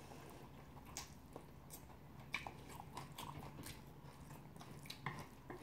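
Faint mouth sounds of someone chewing bibim naengmyeon noodles: scattered short wet clicks and smacks at uneven intervals.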